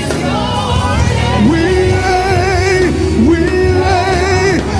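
Live African gospel praise music: a lead singer holding long notes with vibrato over a band with a strong bass line.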